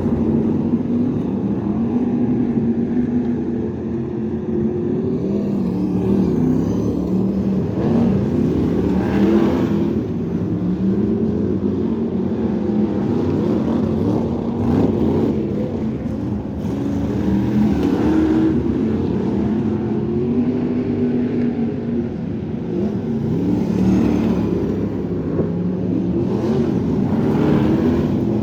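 Crate sprint car V8 engine running on a dirt oval, its pitch rising and falling over and over as the throttle is opened and lifted through the turns.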